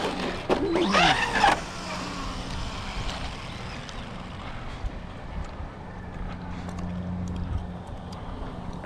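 A steady low mechanical hum, like a motor running, over a faint background haze with a few light ticks; the hum fades out near the end.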